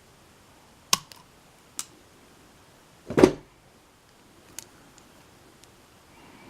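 Small parts of a pin-tumbler lock being handled during reassembly: a few sharp clicks, with one louder knock about three seconds in.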